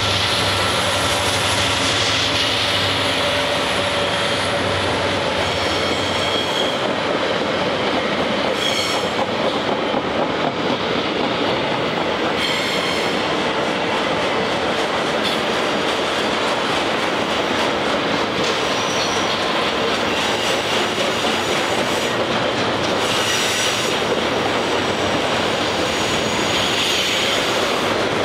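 Freight train rolling past on a curve. The engine of the trailing lead SD70MAC locomotive (EMD 710 diesel) fades out over the first few seconds, leaving a steady rumble of freight cars. Brief high-pitched wheel squeals recur every few seconds.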